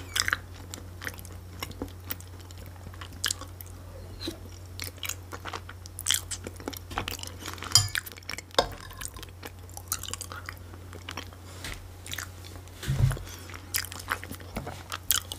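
Close-miked chewing and wet mouth sounds of a person eating soft cabbage rolls with mashed potato, with occasional sharp clicks from the fork and teeth. A steady low hum runs underneath.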